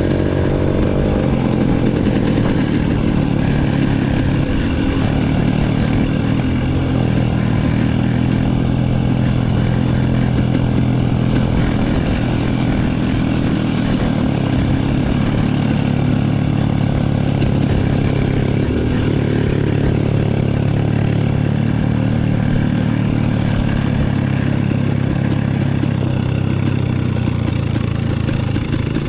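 Dirt bike engine running at low, fairly steady revs with small rises and dips in pitch, as the bike is ridden slowly along a trail.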